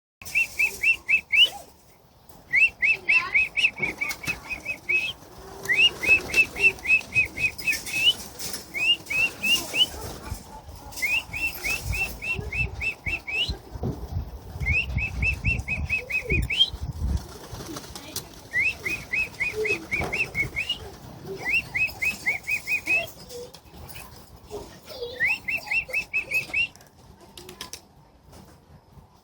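A bird calling over and over in quick runs of short rising chirps, about eight notes a run, with a run every second or two. A low rushing noise comes in around the middle.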